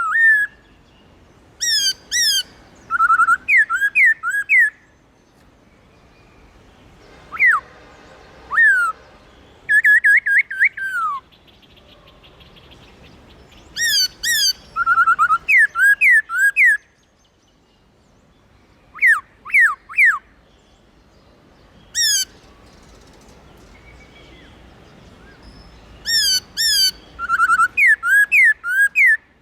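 Black-throated laughingthrush singing: loud, clear whistled phrases of quick falling notes, delivered in bursts of a few notes with pauses of a second to several seconds between them.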